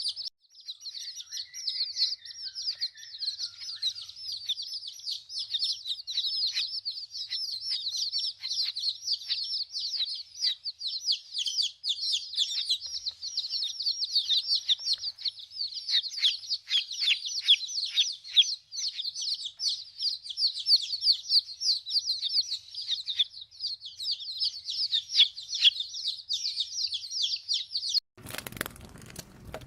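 Many small birds chirping rapidly and continuously, dense overlapping high-pitched chirps, cutting off suddenly near the end.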